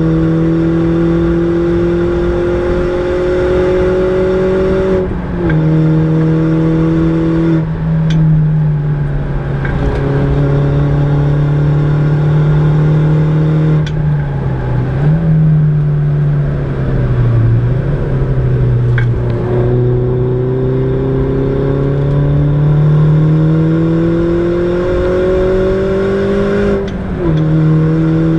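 Mini John Cooper Works R56's turbocharged 1.6-litre four-cylinder heard from inside the cabin, pulling hard with the pitch climbing steadily. It drops at the gear changes about five and seven seconds in and again near the end. Midway the engine note falls and wavers as the car lifts and slows, then climbs again.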